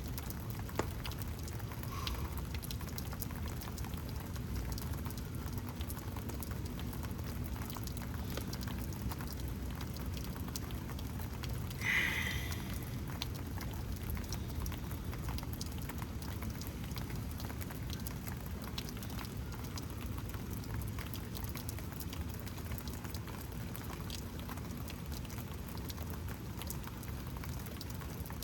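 Steady rain with drops pattering, over a low, even rush of noise. A short, sharper sound stands out once, about midway.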